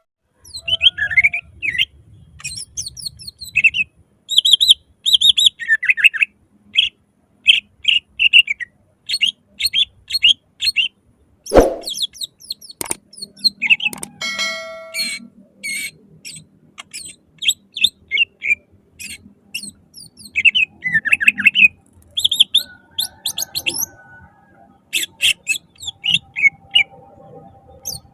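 Cucak ijo (green leafbird) singing loudly in rapid, varied bursts of short high chirps and trills. A single sharp knock comes near the middle, and a brief ringing chime a few seconds later.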